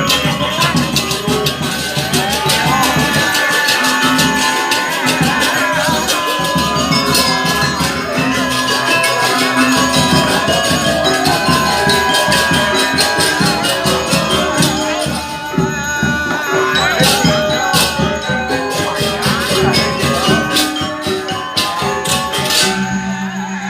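Balinese gamelan music: metallophones and gongs playing under rapid, dense clashing of small cymbals. Near the end a steady low held tone comes in.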